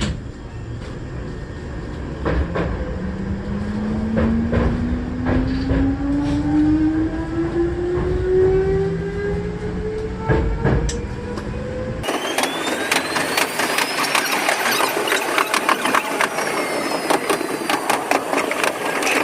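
Hankyu electric train pulling away from a station: traction motor whine rising steadily in pitch as it accelerates, over rumbling wheels and clicks at the rail joints. About twelve seconds in, the sound changes suddenly to a brighter, rattling wheel-on-rail noise with many clicks.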